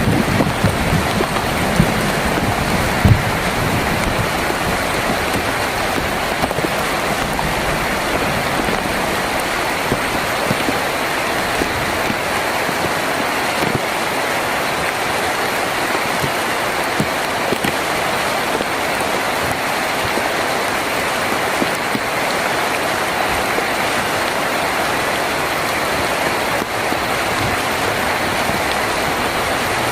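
Heavy rain drumming steadily on a tin roof, a dense even patter. A low rumble, the tail of thunder, dies away in the first few seconds.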